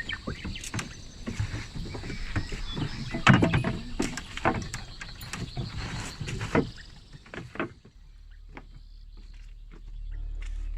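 Irregular knocks and clatter over a steady high drone, easing off after about seven seconds; background music comes in near the end.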